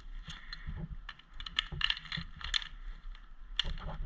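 Irregular clicks, rattles and scrapes of airsoft gear being handled, a CO2 pistol and its magazine being pulled from and worked around belt pouches.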